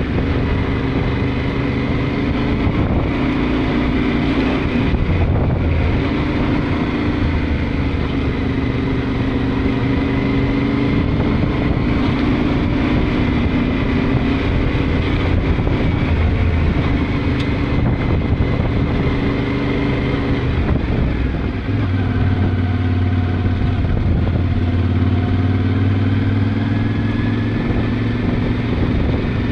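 Yamaha Ténéré 700 parallel-twin engine running as the motorcycle rides along, its note rising and falling with the throttle. About two-thirds of the way in there is a brief dip and the engine settles into a lower, steadier note.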